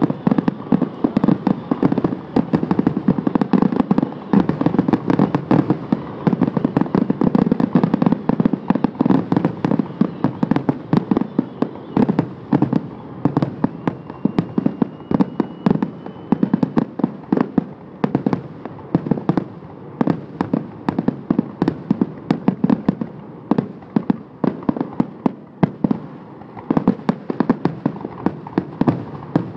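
Fireworks going off in a dense, continuous barrage of rapid bangs and crackles, several a second, with a faint thin whistle about halfway through.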